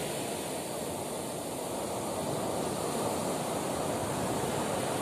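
Sea waves washing on a beach, a steady rushing surf sound that swells slightly in level toward the end.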